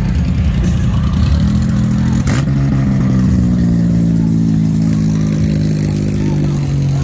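Motorcycle engine running loudly. About a second in its note rises, then it slowly drops in pitch over the following seconds as the engine comes off the revs. There is one sharp click a little past two seconds in.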